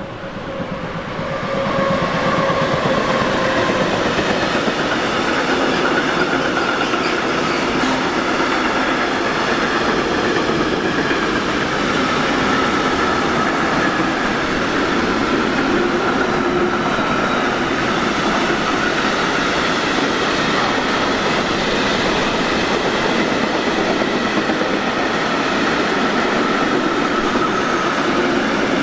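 A train passing close by: its noise swells up over the first two seconds, then stays loud and steady, with the rolling of wheels on the rails and a thin whine over it.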